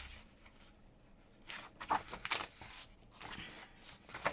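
Paper being handled and sorted: a few brief rustles of sheets being picked up and moved, starting about a second and a half in.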